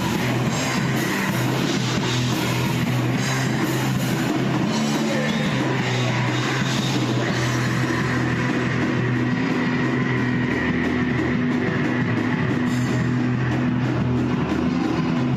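A rock band playing live in rehearsal: distorted electric guitars holding low chords over a drum kit with cymbals. No singing.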